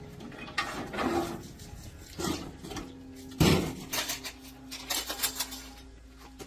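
Metal tools and parts clinking and clattering as they are handled, in a string of separate knocks, the loudest about halfway through.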